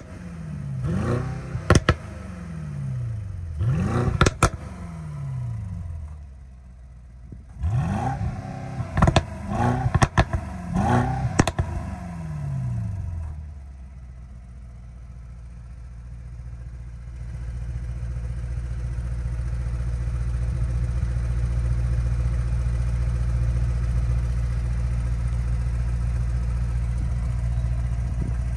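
Mercedes-AMG GLE 63 S twin-turbo V8 revved in a series of quick throttle blips, the pitch rising and falling each time with sharp exhaust crackles. After about thirteen seconds it settles to a steady idle, which gets louder a few seconds later.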